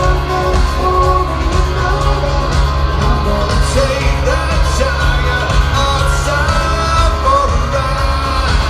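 Live rock band playing a song with sung vocals over a strong, steady bass.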